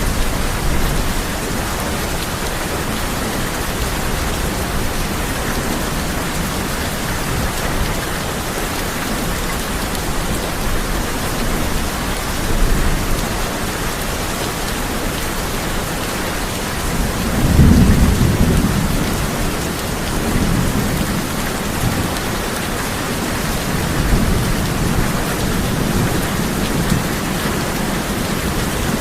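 Steady heavy rain drumming on a tin roof, with thunder rumbling low beneath it: a louder roll about two-thirds of the way through and fainter rumbles before and after.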